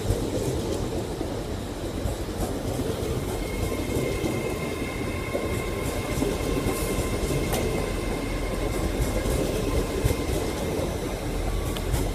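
LNER Class 801 Azuma electric train pulling out past the platform: a steady rumble of wheels on rail, with a few sharp clicks over rail joints. A faint high steady tone comes in about three seconds in.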